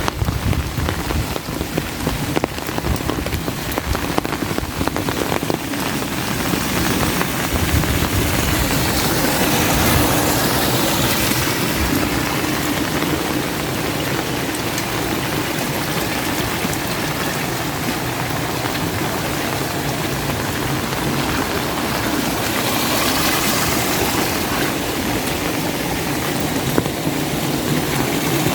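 Steady heavy rain falling, a dense even hiss that swells louder twice.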